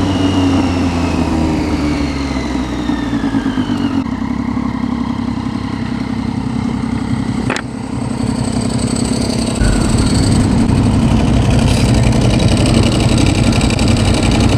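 Motorcycle engine heard while riding, its pitch falling over the first few seconds as the bike slows, then running on louder and steadier from about two-thirds of the way through.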